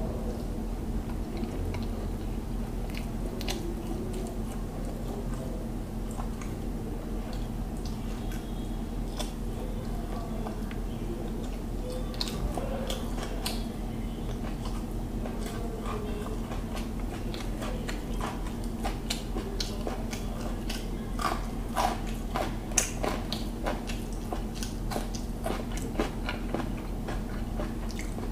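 Close-miked chewing and mouth sounds of a person eating hilsa biryani by hand, with scattered short wet clicks that come thicker and louder in the second half. A steady low hum runs underneath.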